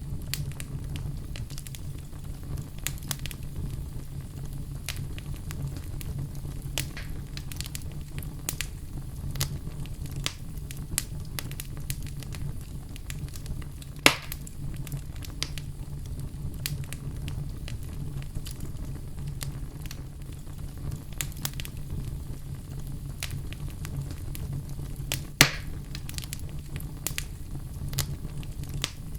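Wood fire crackling steadily over a low rumble, with scattered small pops and two louder pops, one about halfway through and one near the end.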